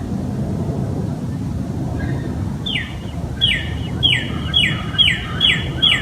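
A bird chirping: a short note sliding down in pitch, repeated about twice a second from about halfway through, over a steady low rumble.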